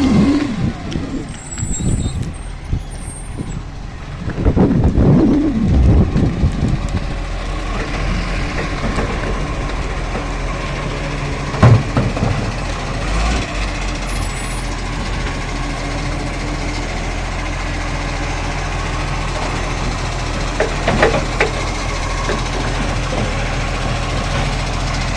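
Garbage truck engine running steadily, with a louder rough stretch about four seconds in and a single sharp knock near the middle.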